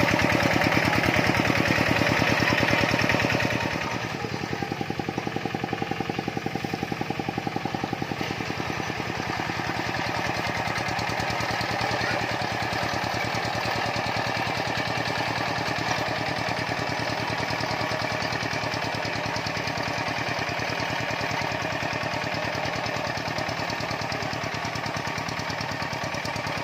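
Tractor engine running steadily with a fast, even pulsing beat while plowing. It is louder for the first three or four seconds, then drops and runs on at a lower, steady level.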